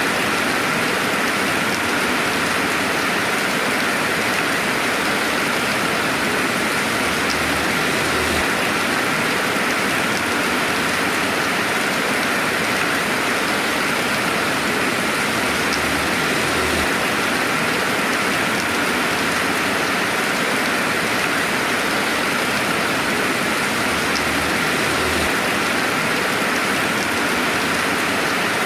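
Steady rainfall ambience with no thunder: an even, unbroken hiss of rain that holds the same level throughout, with a faint low swell returning about every eight seconds.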